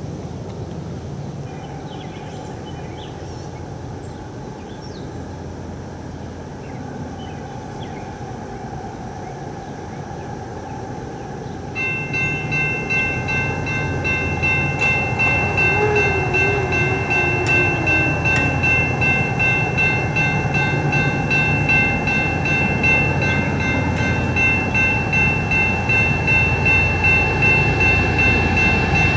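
Approaching freight train rumbling, the noise growing louder. About twelve seconds in, a steady high-pitched ringing starts abruptly and continues, with a faint regular pulse.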